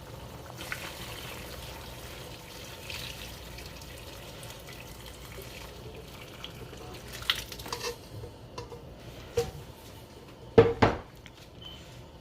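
Water running and splashing in a kitchen sink, followed by a few sharp knocks and clatters of kitchenware; the loudest is a double knock near the end.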